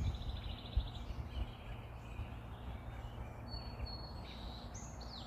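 Wild songbirds calling: a rapid high trill at the start, then thin high whistles and a short falling note near the end, over a steady low outdoor rumble.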